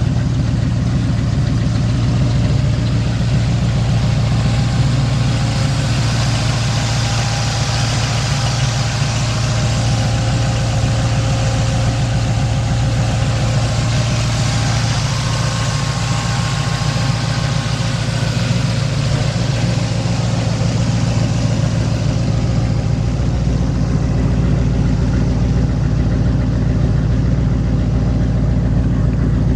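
1969 Mustang Fastback's 351 Cleveland Cobra Jet V8 idling steadily.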